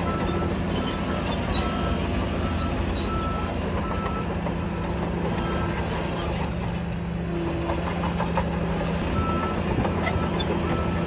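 Heavy diesel earthmoving machinery running steadily, with a reversing alarm beeping in short, repeated beeps that come and go.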